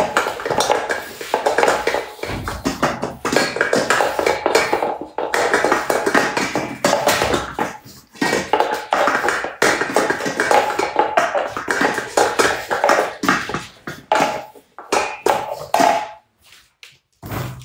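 Bowls clattering and scraping: a dense run of clinks and knocks with some ringing, which thins out and stops near the end.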